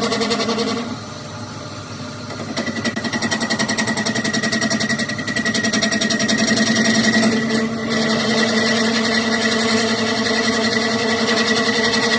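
A workshop machine running steadily with a hum and a fast, even buzzing rattle. It drops back about a second in and comes up to full level again a couple of seconds later.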